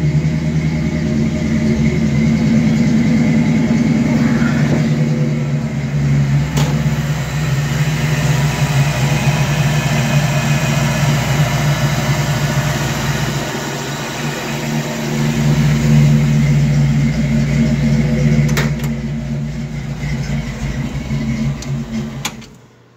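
Ford 5.0 V8 engine in a 1966 Bronco running steadily through Flowmaster two-chamber mufflers. It cuts off suddenly near the end.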